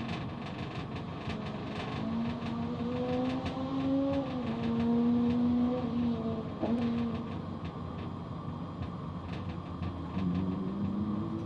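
High-revving car engines on the circuit: about two seconds in, one climbs in pitch and then drops and fades after about seven seconds, and another starts climbing near the end.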